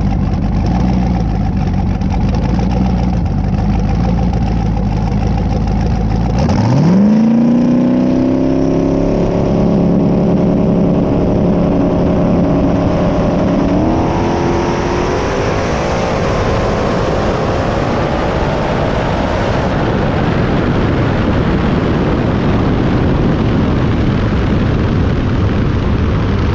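A drag car's turbocharged V8 idles low, then about six seconds in it revs hard, its pitch climbing sharply. It keeps rising in steps until about twenty seconds in, then gives way to a steady rushing noise.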